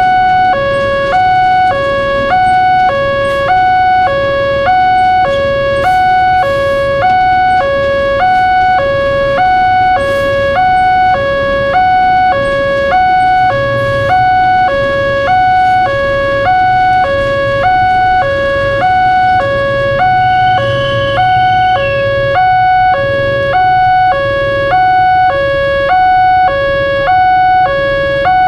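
Indonesian railroad level-crossing warning alarm: an electronic two-tone signal alternating between a lower and a higher pitch about once a second. It means the crossing is active and a train is due.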